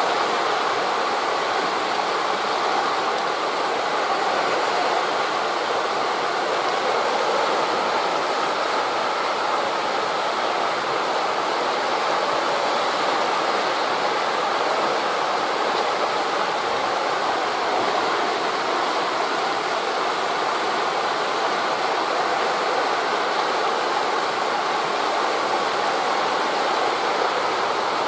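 Wind rushing steadily through forest leaves, mixed with waves breaking on a beach: an even, unbroken rush with no single event standing out.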